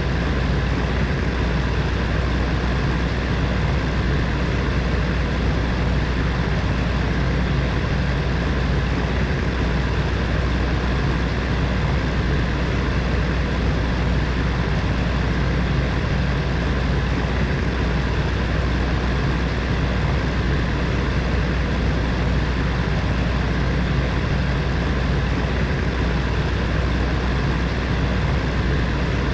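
Electric heater fan running steadily: a constant whooshing rush of air with a deep low hum from the motor.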